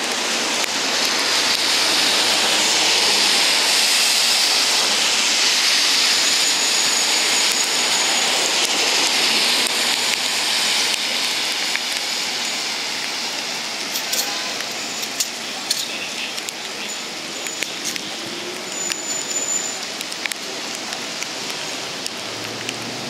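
Heavy rain pouring down steadily. It eases about halfway through, leaving a lighter shower in which single drops tick sharply close by.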